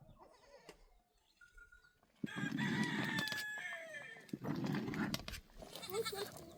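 Rooster crowing: a long call starting about two seconds in, followed by a second, shorter call.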